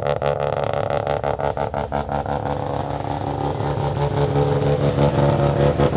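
A car engine running steadily, with a regular pulsing early on that fades out, getting a little louder toward the end.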